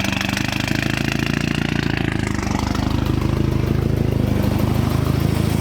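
Turbocharged Chevy Cruze 1.8 four-cylinder, fitted with a GT35-type turbo, idling steadily with its turbo and exhaust audible on a tune that still needs work. A thin high whine fades out in the first couple of seconds, and the running sounds a little fuller in the second half.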